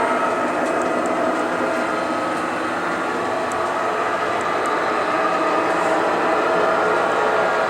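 O scale model train running on the layout, with a steady rolling and mechanical sound and the locomotive's onboard sound system producing a continuous engine-like drone.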